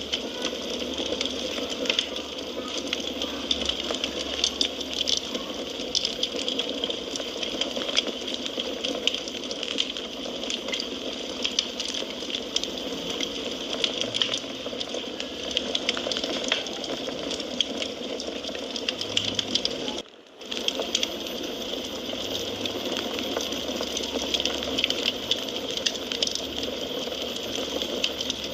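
Wood fire crackling in a fireplace: a steady hiss thick with small sharp pops and snaps. The sound drops out for a moment about two-thirds of the way through, then resumes.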